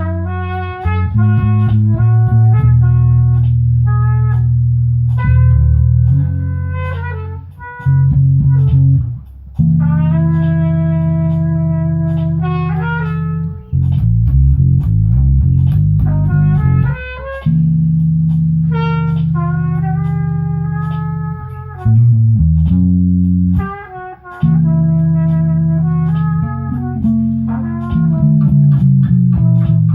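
A band jamming: guitar chords over a bass line. The chords are held for one to several seconds, with short breaks between them.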